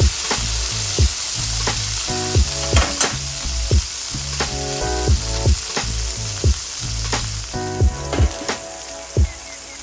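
Beef patties and an onion slice sizzling steadily in hot oil in a cast iron skillet. A background music track with a regular beat plays underneath.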